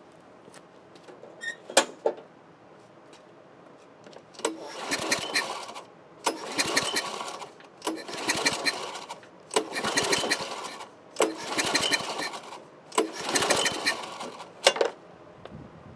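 Tecumseh lawn mower engine being cranked with its recoil pull-starter five times in a row, each pull a whirring rush of about a second, without starting: cranking for a compression test on a worn engine. A few clicks and knocks in the first two seconds.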